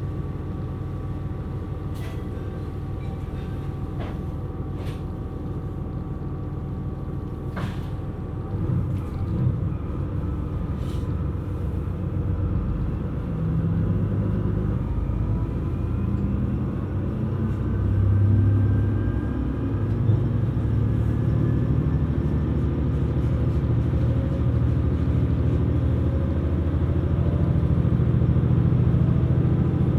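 KiHa 127 series diesel railcar heard from on board: the engine runs quietly with a few clicks for the first several seconds. From about eight seconds in it grows louder and rises slowly in pitch as the railcar pulls away and accelerates.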